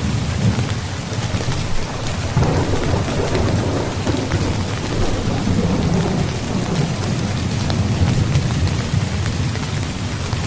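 Rain pattering on a tent, with a low rolling rumble of thunder that swells a couple of seconds in and fades again.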